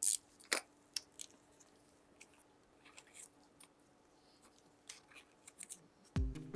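Scattered small sharp clicks and crackling ticks from close-up hand work on small parts, loudest at the very start and again about half a second in. Background music starts just before the end.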